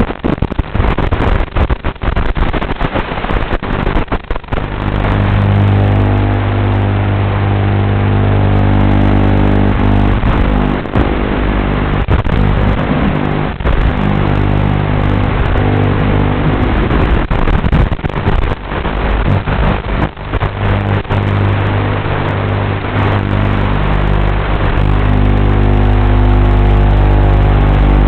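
Motors and propellers of a 5-inch FPV freestyle quadcopter running loud, with a buzzing drone whose pitch holds and shifts as the throttle changes, broken by many short dips.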